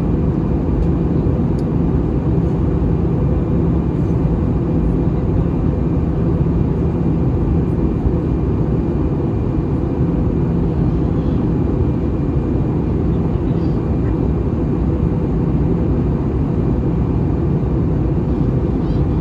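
Steady engine and airflow rumble heard inside the cabin of an Airbus A320 airliner in flight, deep and even with a faint steady hum over it.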